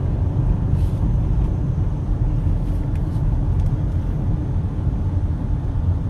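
Steady engine and road rumble of a Mitsubishi Pajero being driven, heard from inside the cabin.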